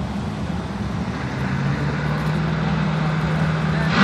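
Drag-racing car engines running at the starting line, with a steady engine note coming in about a second in and slowly growing louder.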